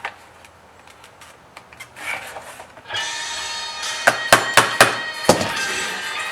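Small clicks and taps of a blade working along the sealed seam of a plastic LED tail light housing as it is pried apart. About halfway in, guitar music starts, and several sharp knocks follow.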